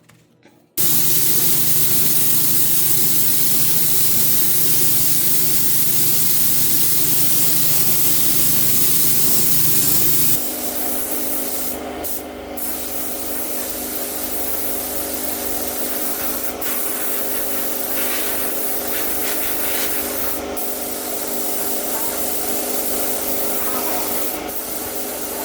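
A workshop tool running with a loud, steady hiss that cuts in abruptly about a second in. About ten seconds in it drops slightly in level and turns into a steadier hum with a few clicks.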